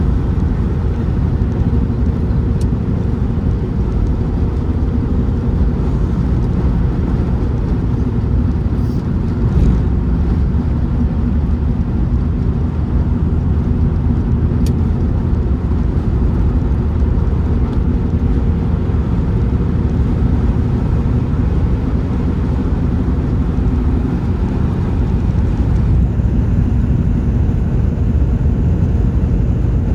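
A car being driven, its engine and tyre noise making a steady, loud low rumble.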